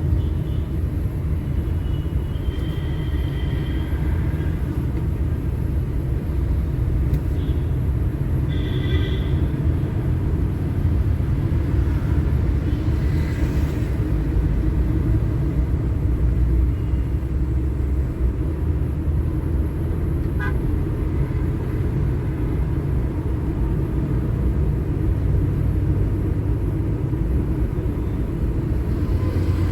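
Steady low rumble of a vehicle driving in road traffic. Two short higher-pitched tones come through, one a few seconds in and one about nine seconds in.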